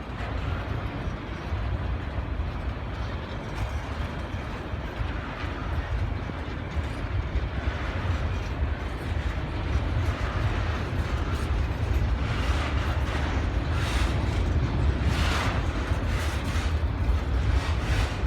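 Train passing on the tracks: a steady low rumble, with rapid sharp knocks growing louder in the last six seconds.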